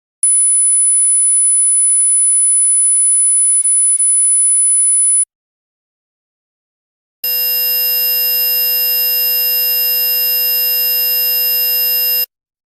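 Simulated tinnitus sounds: a steady, high-pitched ringing tone lasting about five seconds, then, after a two-second gap, a steady buzz made of many tones together for about five seconds.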